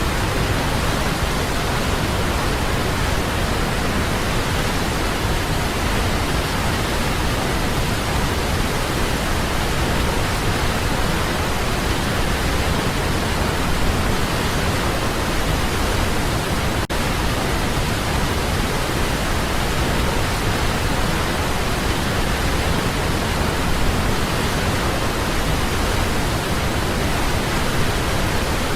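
Waterfall: water falling in a steady, even rush, with a split-second dropout a little after the middle.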